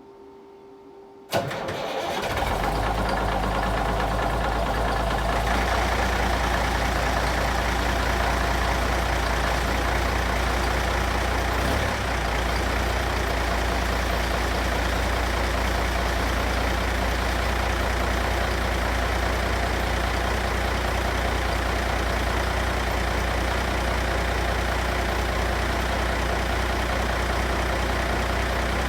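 Cummins NTC 444 turbocharged inline-six diesel cold-starting about a second in, catching almost at once, then settling into a steady idle. The engine is freshly rebuilt and turned up on its injectors and fuel pump.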